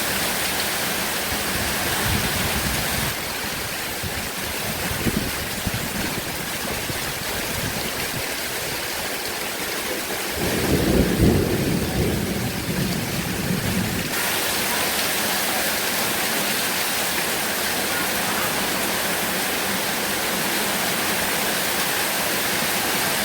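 Heavy rain falling steadily, with a low rumble of thunder starting about ten seconds in and lasting a few seconds.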